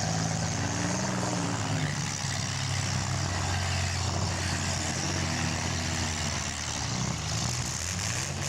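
Several compact cars' engines running and revving in a mini car demolition derby, their pitch rising and falling steadily, over a continuous wash of exhaust and arena noise.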